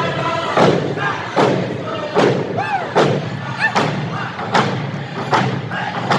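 Steady beat of heavy thumps, a little faster than one a second, with people shouting over it.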